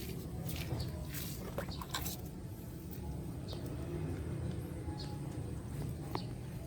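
Occasional light clicks and clinks of hand tools on metal while the oil pan is being unbolted, over a steady low hum. A few short high chirps sound now and then.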